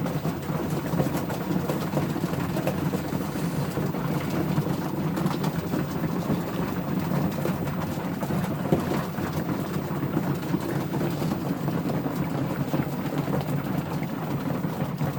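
A loft full of young racing homer pigeons cooing together in a continuous low murmur, with a dense patter of small clicks over it.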